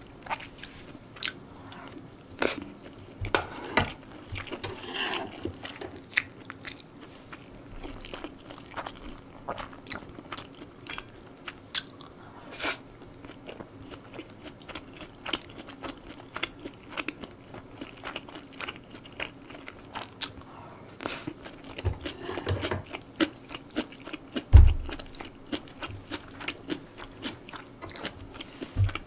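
Close-miked chewing and mouth smacks of a person eating spicy stir-fried pork and egg rice, with many short clicks from the mouth and the utensils. Near the end comes one loud low thump.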